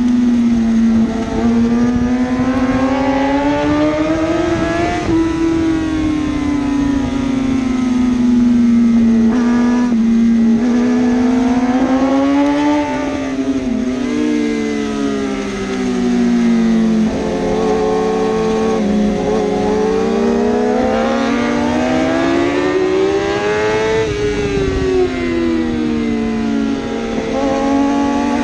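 1000cc superbike engines running hard, their pitch rising and falling slowly over several seconds as the bikes accelerate and ease off; at times two engines are heard at once.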